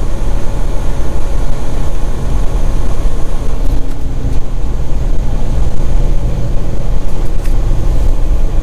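Semi truck's diesel engine running steadily, heard from inside the cab as the truck drives slowly.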